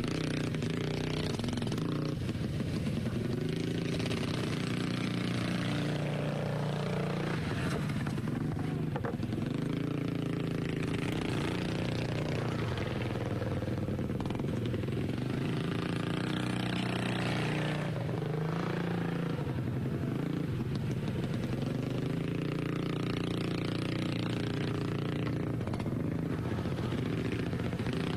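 Racing lawnmower engines running hard, their pitch and loudness rising and falling every few seconds as they lap the track.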